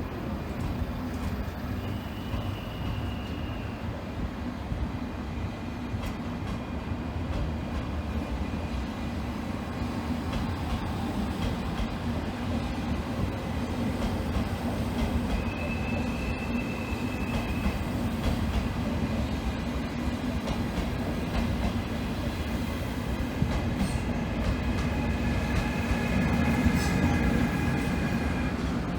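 Train moving through a station: a steady heavy rumble with a low hum. Brief high wheel squeals come about 2 and 16 seconds in, and several squealing tones sound in the last few seconds.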